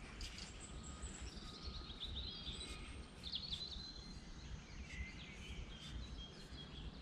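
Small birds chirping and trilling in short, high phrases throughout, over a faint, uneven low rumble.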